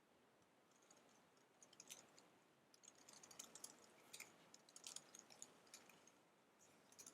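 Fast typing on an Apple wireless keyboard: faint, irregular key clicks in quick clusters, sparse at first and busier from about three seconds in.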